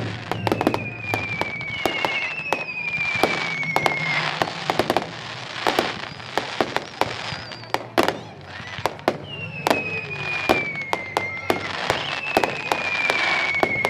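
Fireworks display: a rapid run of sharp bangs and crackles, with four long whistles falling in pitch, two early on and two near the end.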